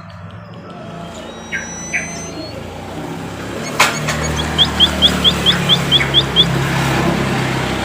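Emprit kaji calling: a few thin high whistles, then a quick run of about nine short, rising chirps, roughly five a second. A low steady hum runs underneath.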